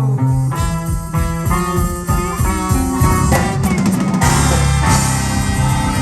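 Live blues-rock band playing the song's closing bars: drums hitting on the beat under held bass and guitar notes, a quick drum fill a little past halfway, then the full band striking a long held chord with cymbals ringing.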